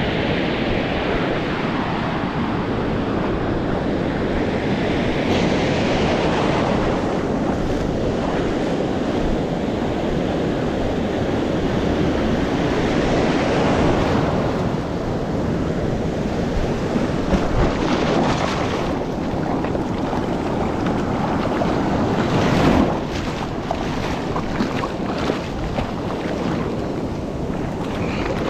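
Small ocean waves breaking and washing up the beach, the surf swelling and easing several times, with wind buffeting the microphone in crackling gusts in the second half.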